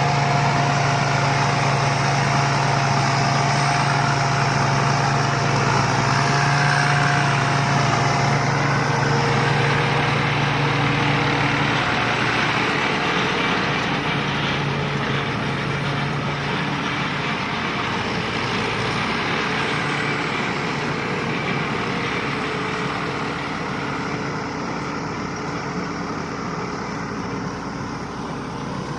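Rice combine harvester running steadily, with a steady whine for the first eight seconds or so; the sound slowly grows fainter toward the end.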